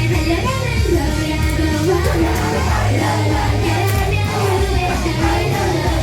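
Rock band playing live with a singer over a heavy, steady bass and drums, cymbals crashing now and then.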